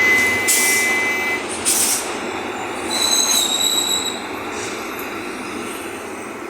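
Mercedes-Benz OF-1519 city bus running, heard from on board, with two short sharp air hisses in the first two seconds. High-pitched squeals come with them: a steady one at the start and another about three seconds in.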